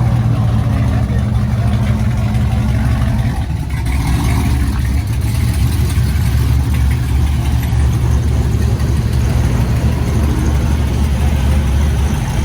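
Truck engine idling loudly with a deep, steady rumble.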